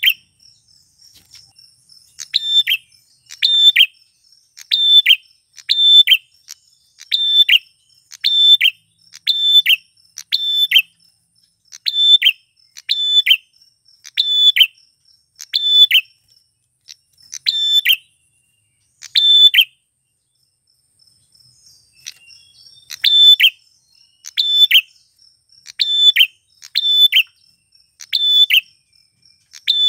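Male prenjak klawu, a prinia, calling over and over at about one sharp call a second. The calls break off for a few seconds about two-thirds of the way in, then start again.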